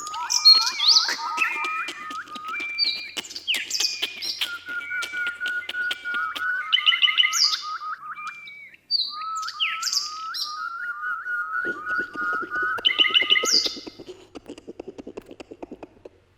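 Several songbirds singing together in a forest dawn chorus: one repeats quick series of short rising whistled notes, while others add higher chirps and trills over it. The sound breaks off briefly about nine seconds in, and a fast low pulsing runs under the calls in the last few seconds.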